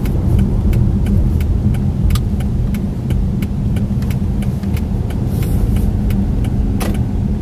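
Car interior with the steady low rumble of the engine and road, and the turn-signal indicator ticking evenly about three times a second during a left turn. There is a sharper click near the end.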